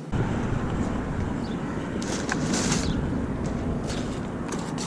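Steady road traffic noise from a busy street, starting abruptly, with a few faint light clicks.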